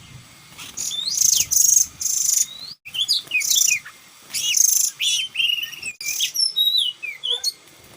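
Oriental magpie-robin (kacer) song: loud, varied whistles, slurred notes and rapid chirps in quick phrases, broken by two abrupt cuts, about three seconds and six seconds in.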